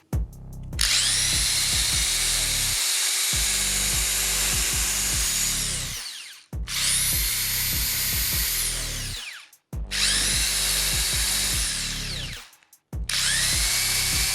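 Makita TD0101F corded, brushed impact driver running with no load in four separate bursts of a few seconds each: its motor whine rises quickly to a steady high pitch, holds, then falls away as the trigger is released.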